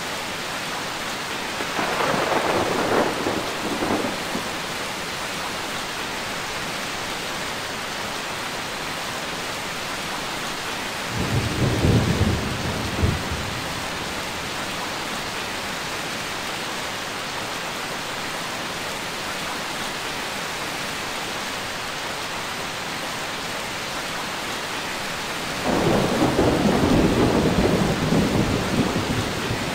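Steady heavy rain with three rolls of thunder: one a couple of seconds in, a deeper one about eleven seconds in, and a longer one that starts about twenty-six seconds in and runs until near the end.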